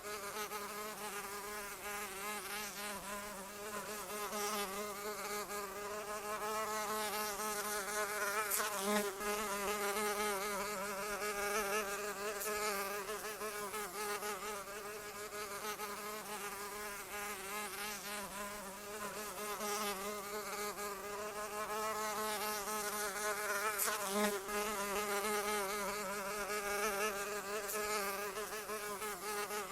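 A flying insect's wings buzzing continuously, a steady drone whose pitch wavers slightly and whose loudness rises and falls every several seconds.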